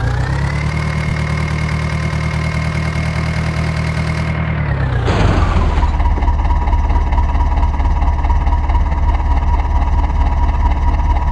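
Heavy diesel engine held at high revs, then dropping back about five seconds in and running steadily at a lower speed.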